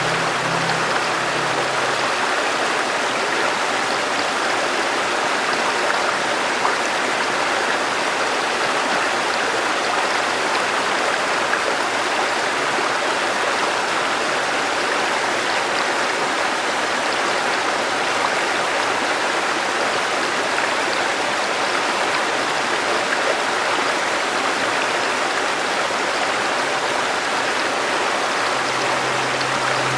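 A river running steadily, its water rushing evenly without pause. A low held musical tone sounds softly in the first second or so and again near the end.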